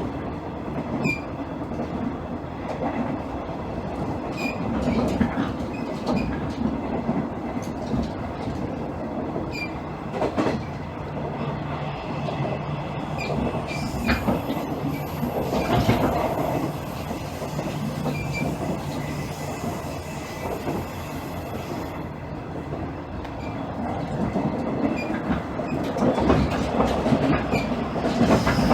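Interior running sound of a JR East KiHa 110 series diesel railcar (KiHa 112): steady rumble of the underfloor diesel engine and wheels, with scattered clicks from the rails. A steady engine hum stands out through the middle stretch.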